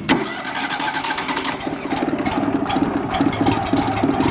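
Wood-Mizer LT35HD sawmill engine just after a cold start on part choke: a sharp burst right at the start, then the engine runs with an uneven beat as it begins to warm up.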